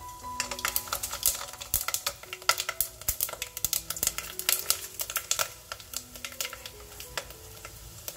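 Dried sea mustard (miyeok) deep-frying in hot oil, crackling with dense, irregular pops as wooden chopsticks move the pieces about. Soft background music with held notes runs underneath.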